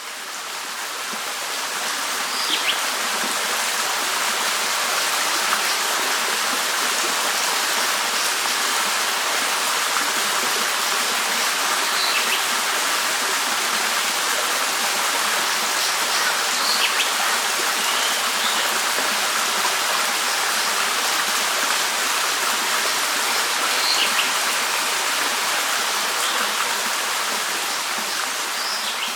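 Running water of a stream, a steady rush that fades in over the first couple of seconds, with a few short bird chirps scattered through it.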